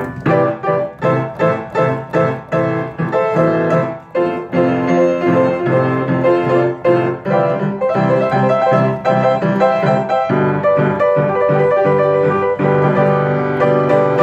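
A piano playing an arrangement: a run of short, evenly repeated chords for the first few seconds, then more held notes.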